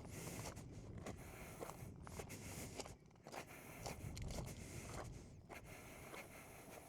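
Faint, irregular scraping and rustling with light clicks, the handling and movement noise of someone shifting about on foot.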